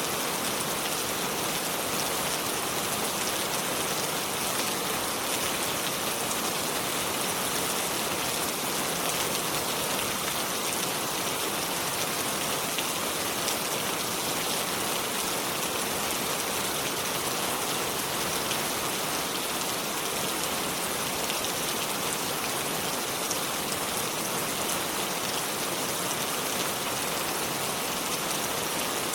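Steady rain falling, an even hiss of many drops with fine patter and no change in intensity.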